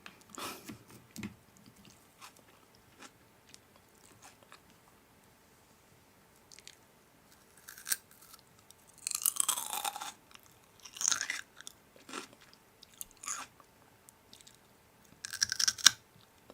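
A person biting and chewing crunchy food close to the microphone. Small mouth clicks are followed, from about halfway through, by several short, loud crunches.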